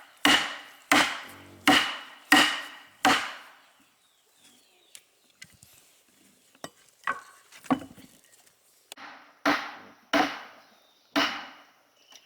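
A hand tool repeatedly striking wood, as in chopping or hewing timber. First come five sharp blows at a steady pace of about one every 0.7 seconds, each with a short ring. After a pause with a few lighter knocks, three more blows land near the end.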